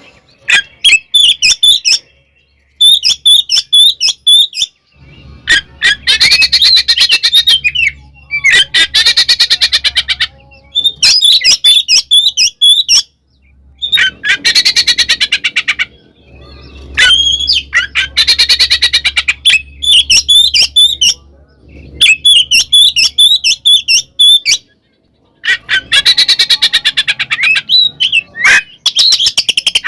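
Oriental magpie-robin (kacer) singing loudly in repeated phrases a second or two long, with short pauses between them. Whistled notes alternate with harsh, fast rattling chatter in the aggressive fighting-song style.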